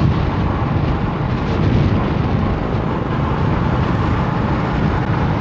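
Strong storm wind rushing over the microphone, mixed with the steady noise of a vehicle moving on the road. The noise is loud and even throughout, heaviest in the low end.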